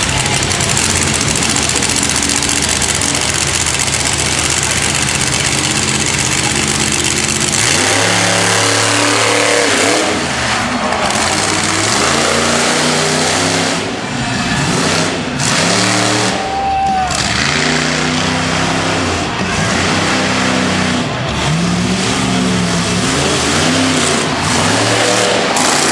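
Monster truck engine running hard at a steady high pitch. After about seven seconds it is revved up and let off again and again in rising and falling sweeps.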